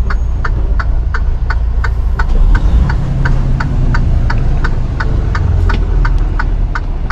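Semi-truck engine running with a steady low rumble, under an even ticking of about three clicks a second from the turn-signal or hazard flasher.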